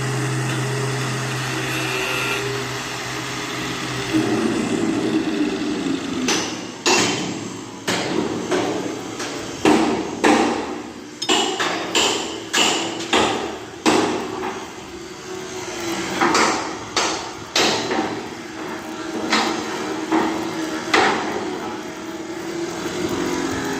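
A hammer striking metal over and over in irregular blows, roughly one or two a second, each with a brief ring. It starts about four seconds in, after a steady low machine hum.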